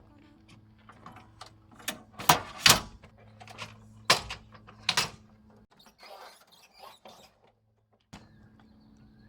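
A run of sharp knocks and clunks, five louder ones in the first five seconds, over a steady low hum that drops out briefly near the end.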